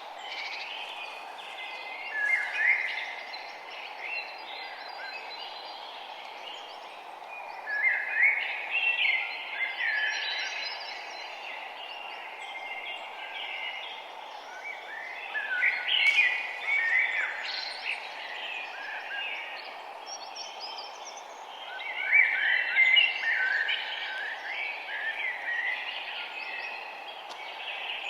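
Several songbirds chirping and singing in bursts that come and go every few seconds, over a steady hiss of ambient background noise.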